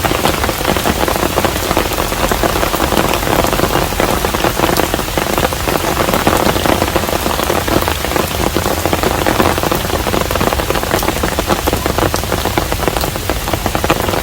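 Steady rain falling at a hanok, a traditional Korean house, with a dense run of separate drops heard close by.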